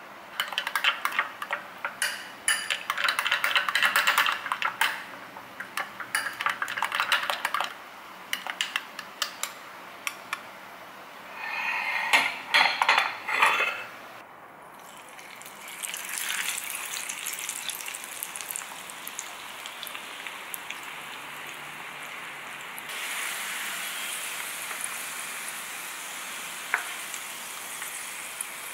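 A spoon stirring and scraping round a glass bowl in quick clinking strokes. Then sweet potato fries sizzling steadily in hot oil in a pot, the sizzle growing louder about two-thirds of the way through.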